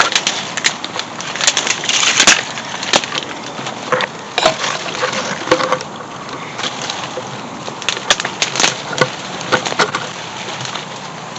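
Twigs snapping and dry brush crackling underfoot as someone pushes through undergrowth on foot, in irregular bursts that thin out toward the end.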